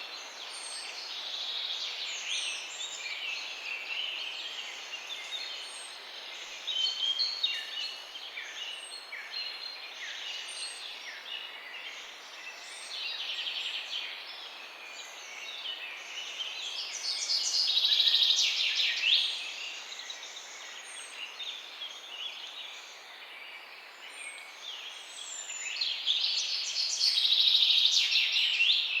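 Several small songbirds chirping and trilling together in a dawn-chorus-like mix, with louder bursts of song about two-thirds of the way through and again near the end, and one high thin chirp repeating every second or two.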